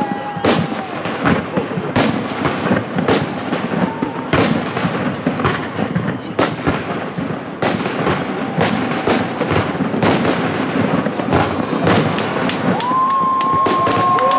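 Fireworks display: a dense run of sharp bangs, several a second, over continuous crackling. A few steady high tones start near the end.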